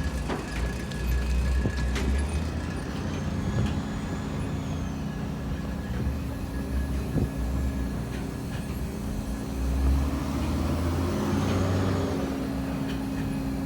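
Sawmill machinery running: a steady low rumble with a constant hum, scattered clanks and knocks, and a faint high whine that rises and falls twice.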